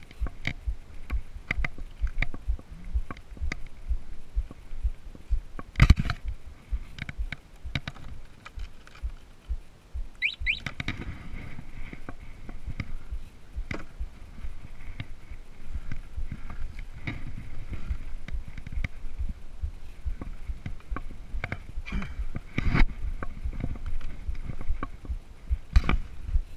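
Moped ridden over a rough sandy, stony track: its small engine runs under a low, uneven rumble and many irregular knocks and rattles from the bumps.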